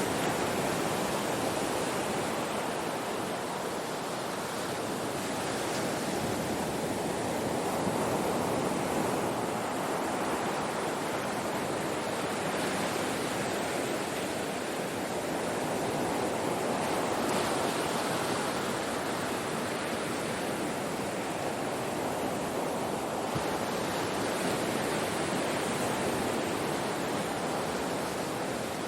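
Ocean surf breaking on a shore: a continuous wash of noise that swells gently and falls back about every eight or nine seconds as waves come in.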